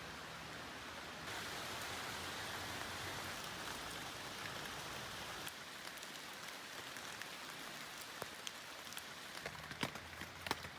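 Steady rain falling, an even hiss, with single drops tapping close by from about eight seconds in and more often near the end.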